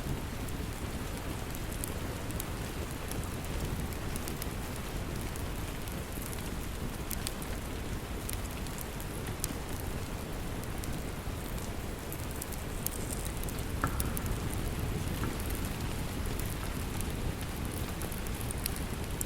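Steady rain, with sharp crackles and pops from a wood fire scattered through it.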